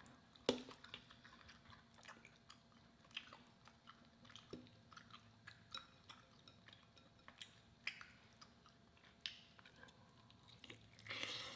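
Faint close-miked chewing of boiled lobster claw meat: scattered soft wet smacks and clicks of the mouth, with a brief louder rustle about eleven seconds in.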